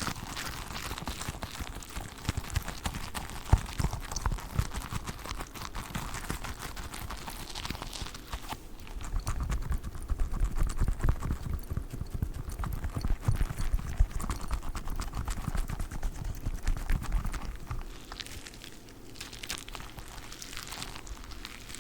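Squishy dumpling toys being squeezed and handled close to the microphone: a dense run of small sticky clicks, with heavier soft thuds through the middle.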